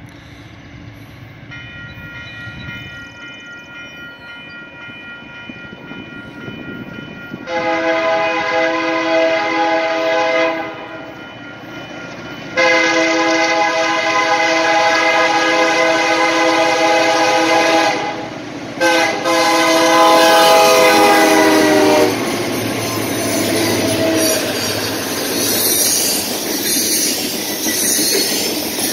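Canadian Pacific diesel freight locomotive approaching and sounding its air horn: a faint chord at first, then three loud long blasts. As the locomotives pass, the horn stops and gives way to engine rumble and the clatter of freight car wheels over the rails.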